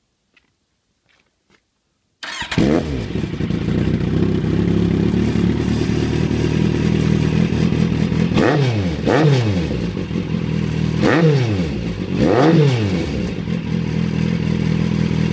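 Kawasaki Z800e inline-four motorcycle engine, fitted with a Hurric Pro 2 exhaust, comes in abruptly about two seconds in and idles, with four quick throttle blips whose pitch rises and falls, two close together and two more a couple of seconds apart.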